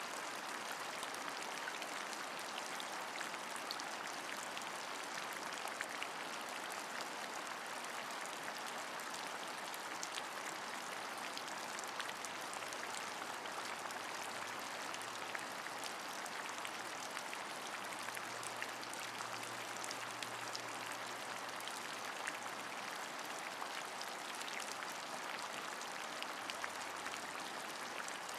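Steady rain: an even hiss of falling rain with many small drop ticks scattered through it.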